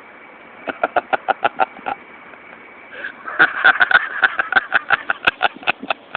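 A person laughing in quick, rhythmic bursts: a short run about a second in, then a louder, longer run from about three seconds in.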